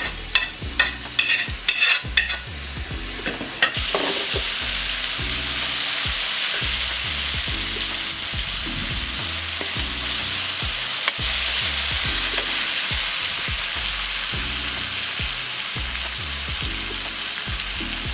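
Food frying in a pan: a utensil clinks and knocks against the pan for a few seconds, then about four seconds in a loud, steady sizzle starts as pineapple goes into the hot oil with the sausage and onions.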